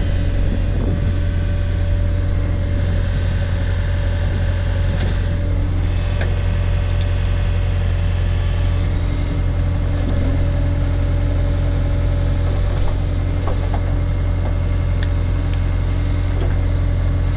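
Case/Davis D100 backhoe engine running steadily while the machine works, a constant low drone with a few faint clicks and knocks over it.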